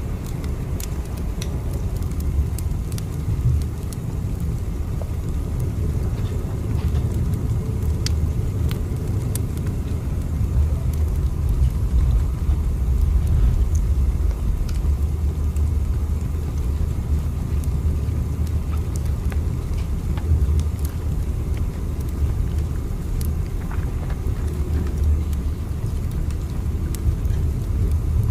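Steady low rumble of a train running, with faint scattered clicks throughout.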